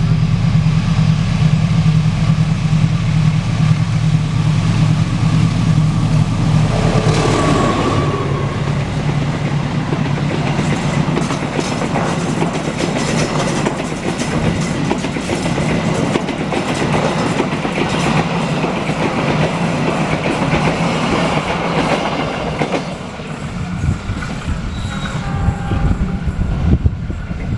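An Indonesian mainline diesel locomotive passes close by, its engine running loud. About ten seconds in, the steady clickety-clack of the carriages' wheels over the rail joints takes over, fading as the train goes by.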